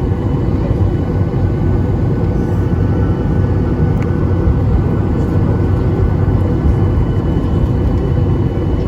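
Steady rumble inside the passenger cabin of a Boeing 737-800 on the ground with its engines running, a low, even roar with faint steady tones above it.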